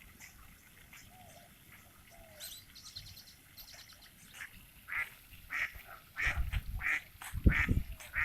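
Ducks quacking, faint at first, then a run of short quacks about every half second that grows louder in the second half. A low rumble comes in over the last two seconds.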